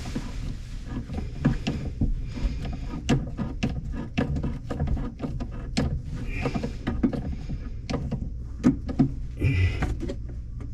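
Irregular clicks, knocks and rubbing of sink drain fittings being handled and tightened by hand.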